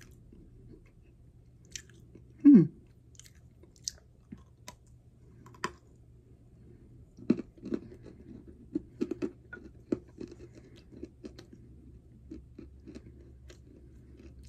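A person chewing and crunching a piece of dry edible clay, with scattered crisp crunches at first and a denser run of them about halfway through. There is a short falling hum of the voice about two and a half seconds in.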